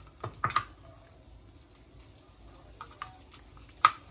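A few light clinks and taps of a spoon and kitchen utensils: two about half a second in, more around three seconds, and a sharper one just before the end. Underneath is a faint sizzle of butter in a pan on low heat.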